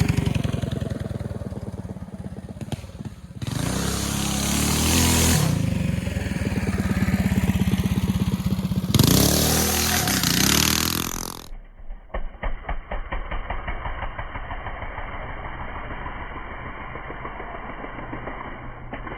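A mini bike's stage 4 Tillotson 212 single-cylinder four-stroke engine running and revving under riding, with two loud rushes of wind noise on the microphone. About eleven seconds in, the sound cuts abruptly to a thinner, quieter recording of a fast, even putting or ticking.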